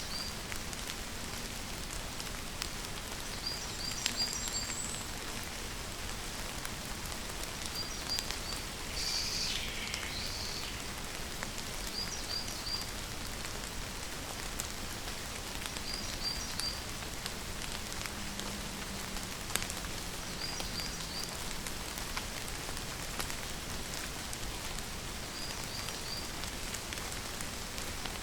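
Steady rain falling, with scattered individual drops ticking. A short group of two or three quick high chirps repeats about every four seconds over it.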